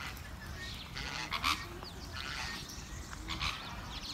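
A few short bird calls, about a second or two apart, over a steady low rumble.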